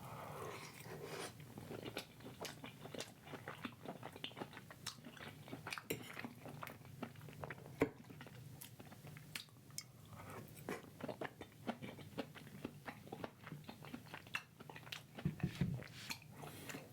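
Close-miked chewing and biting: irregular wet mouth clicks and soft crunches of food being eaten, over a low steady hum.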